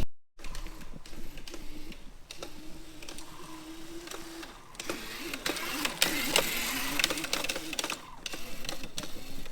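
Razor MX350 electric dirt bike's motor and chain drive whirring as it rides, its pitch wavering with speed and louder past the middle.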